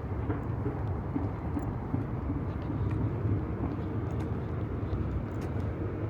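Outdoor city ambience: a steady low rumble of distant engine noise.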